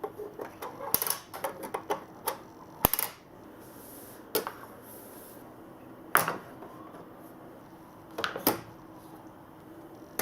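Balls clattering down a marble run track: a quick run of small clicks and knocks for the first three seconds, then single knocks every couple of seconds over a faint steady hum.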